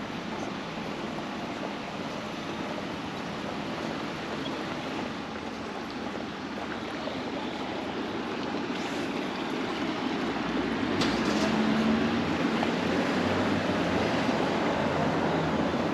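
Road traffic passing close by: a steady rush of tyres and engines that grows louder about ten seconds in as a vehicle draws near, with a low engine hum.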